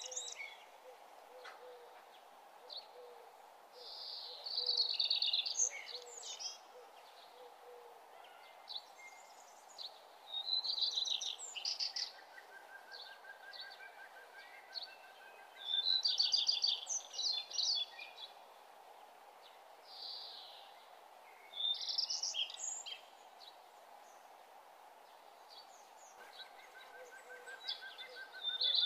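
Songbirds singing: short phrases of rapid, high chirps and trills that come again every five or six seconds, over a faint steady hum.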